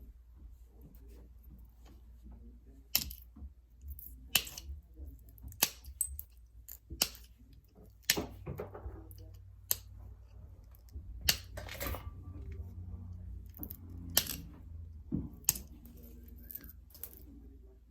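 Novaculite being knapped into a point: about a dozen sharp, separate clicks at uneven intervals of roughly one to two seconds as flakes come off the stone.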